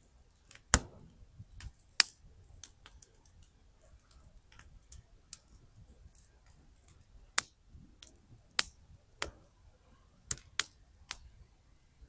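Wood campfire crackling: irregular sharp pops and snaps of burning firewood over a faint low rumble, the loudest snaps about a second in, at two seconds and past seven seconds.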